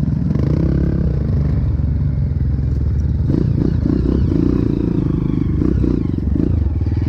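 Dirt bike engine running close to the microphone at low trail speed, the throttle surging and easing unevenly over rough ground, with some clatter from the bike.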